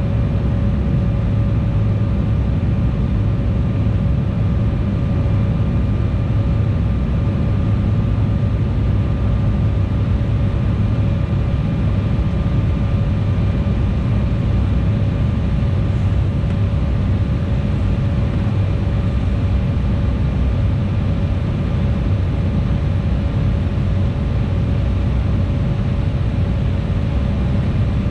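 Cabin noise of an Embraer E175 airliner in flight: a steady, deep rumble from its turbofan engines and the airflow, with a steady whine running through it.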